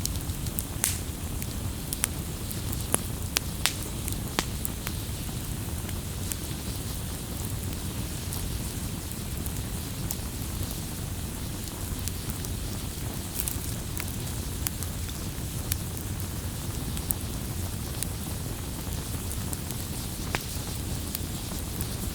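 Wood fire burning with a steady low rumble and sharp crackles and pops, several close together in the first few seconds and fewer after.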